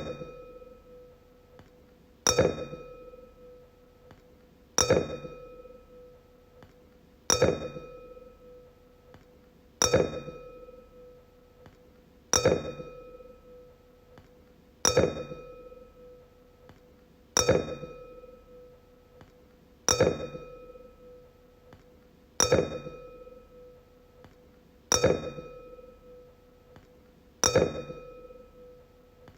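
A wine glass struck again and again, about once every two and a half seconds, each tap ringing out in a clear pitched tone that dies away before the next.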